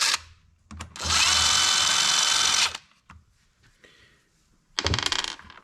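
Power drill-driver running in short bursts while backing out fasteners: a brief blip at the start, one steady run of nearly two seconds, then a shorter burst near the end.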